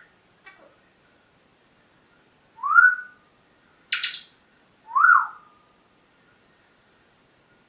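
Pet parrot calling: a rising whistle, then a harsher, higher-pitched squawk, then another rising whistle, about a second apart.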